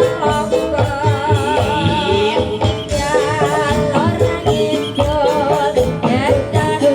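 Jaranan dangdut music: a steady, driving drum beat under a melody with wide, wavering vibrato.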